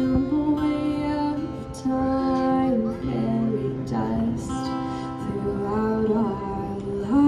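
Live band music: a female voice holds long wordless notes that step up and down over a steady low accompaniment.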